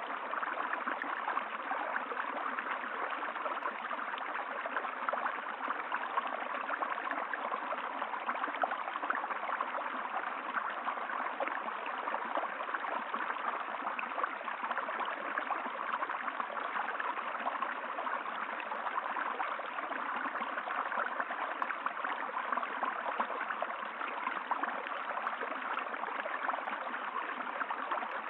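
A stream of running water flowing and gurgling steadily.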